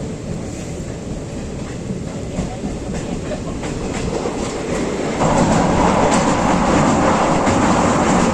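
Passenger train running on the track, a steady rumble with wheels clacking over rail joints; the noise grows clearly louder about five seconds in.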